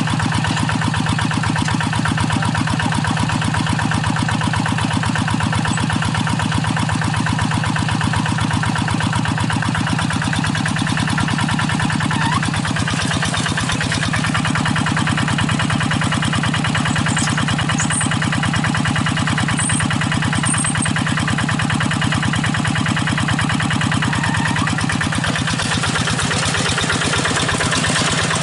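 Single-cylinder diesel engine of a hand-crank-started paddy-field hand tractor, running steadily with rapid, even firing beats.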